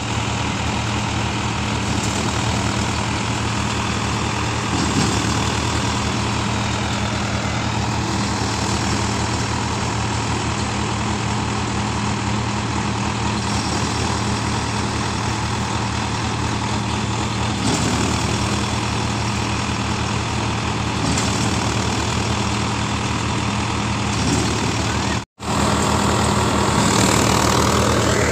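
Sonalika DI 750 tractor's diesel engine running steadily at a constant speed. It cuts out for an instant near the end and comes back a little louder.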